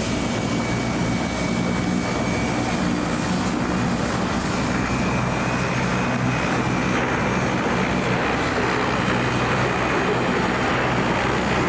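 Aircraft engine noise from an aircraft flying an airshow display: a continuous, steady drone with a low hum.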